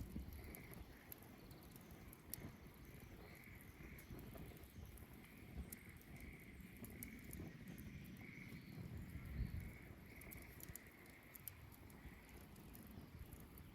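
Wood bonfire burning quietly, with scattered sharp crackles and pops over a low rumble. Faint high chirping pulses repeat steadily in the background.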